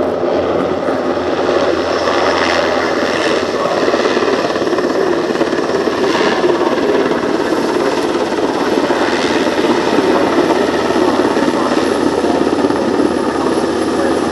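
NH90 twin-engine military helicopter flying overhead, its rotor and turbine noise loud and steady, with a few brief swells in the higher tones.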